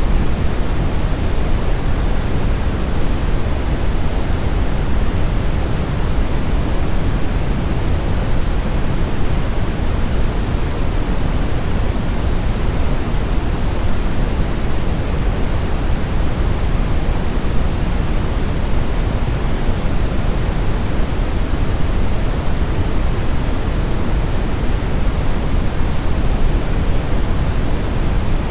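Brown noise: a steady, even rushing hiss weighted heavily toward the low end, with no change or events.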